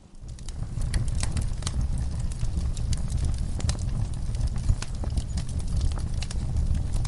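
Ambience of a crackling fire with scattered sharp pops over a steady low rumble, mixed with horses shifting about in a stall. The sound dips almost out at the very start and comes back within half a second.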